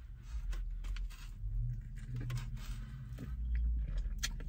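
A person biting into a Philly chicken sandwich and chewing it, with small scattered clicks and crackles, over a low steady rumble.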